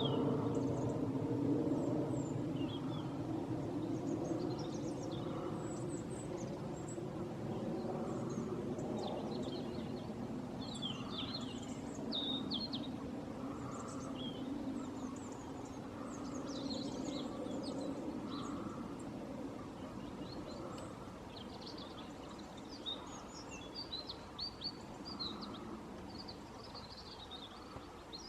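Small birds calling, short high chirps and tweets scattered throughout, over a steady low background rumble that slowly fades.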